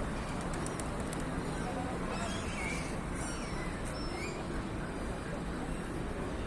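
Short, high bird calls scattered over a steady background of outdoor city noise, with a few faint clicks about a second in.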